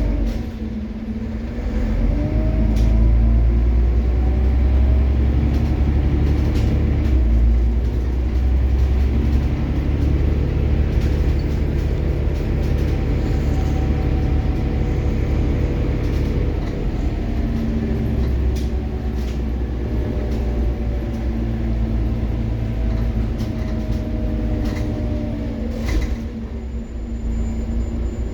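Scania OmniCity city bus under way: the engine's deep rumble, its pitch rising and falling over several seconds as the bus speeds up and slows. A brief thin high tone sounds near the end.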